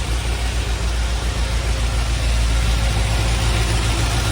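1973 Opel GT's four-cylinder engine idling steadily on its fast idle just after a cold start, a little louder from about two seconds in.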